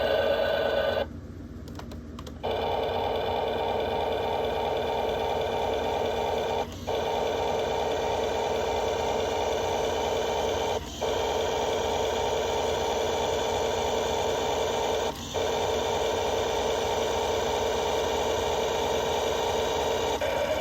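Toy Road Rippers Rumble Tractor playing its electronic engine-running sound effect through its small built-in speaker, a steady buzzy drone. It cuts out briefly about a second in, then drops out for an instant roughly every four seconds as the recorded loop repeats.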